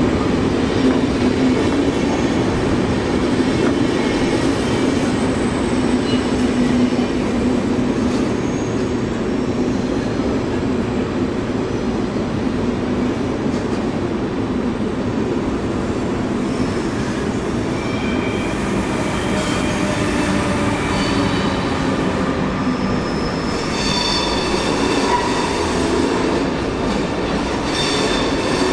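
SBB passenger train rolling through the station: a steady rumble of the coaches on the rails with a low hum in the first several seconds. Later, several thin high squealing tones join in near the end.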